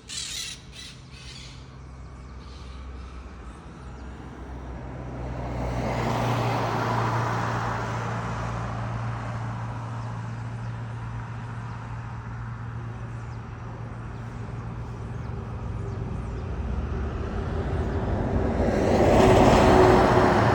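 Road traffic: a motor vehicle passes about six seconds in and another near the end, over a steady low engine hum. A few short bird calls sound at the very start.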